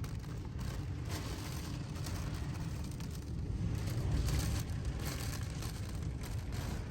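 Typhoon wind gusting, a steady rush that swells into a stronger gust about four seconds in.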